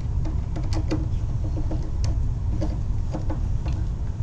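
Scattered light clicks and taps of hand tools and metal parts as an electric water heater's heating element is fitted and its wiring readied, over a steady low rumble.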